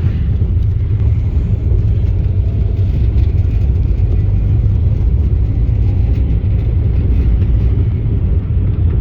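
Steady low rumble of a car on the move, engine and road noise running evenly.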